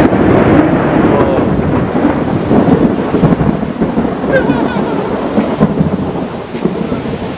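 Thunderstorm: a loud rumble sets in suddenly at the start over the steady rush of heavy rain and wind.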